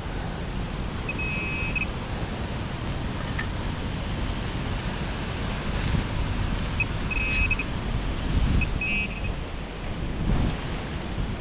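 Strong wind buffeting the microphone, with several short high-pitched beeps from an XP Deus metal detector signalling a target in the ground.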